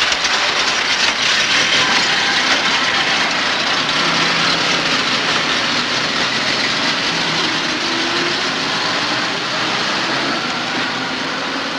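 Engines of vintage 1920s touring cars running as the cars pull away, a steady, noisy rush.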